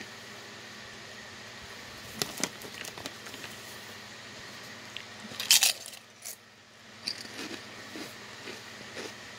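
Someone chewing kettle-cooked potato chips: scattered crunches, with one loud, brief crackle a little past halfway.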